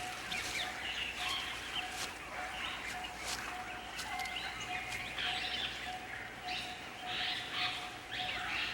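Jungle ambience with birds chirping and calling now and then over a steady background.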